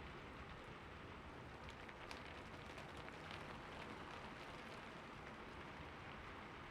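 Soft, steady rain falling, with scattered individual drops ticking through it.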